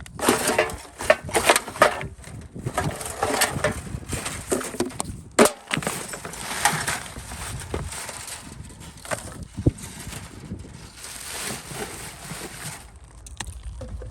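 Irregular crunching and scraping with many sharp clicks; the loudest is a single sharp click about five and a half seconds in.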